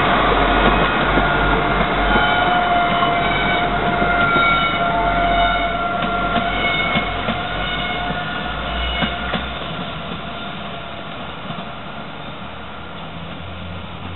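Class 175 diesel multiple unit pulling away, its engine rumble and several steady high tones fading steadily as it draws off. A few sharp clicks come from the wheels over the pointwork about halfway through.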